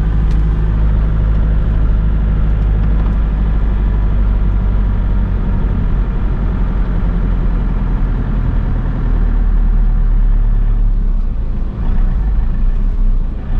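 Toyota Innova D-4D diesel engine heard from inside the cabin, labouring steadily up a hill with a low tractor- or lorry-like sound. The engine is choking and won't pick up speed, a loss of power tied to manifold absolute pressure faults (codes P0069 and P0106) from wrongly fitted vacuum lines.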